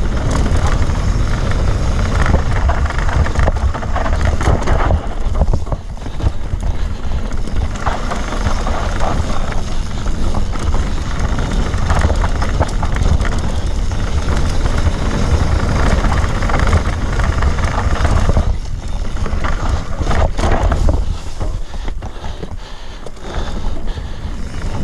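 Enduro motorcycle riding an off-road trail, its engine running under changing throttle, with wind buffeting the on-board microphone. The sound eases off briefly a few times and then picks up again.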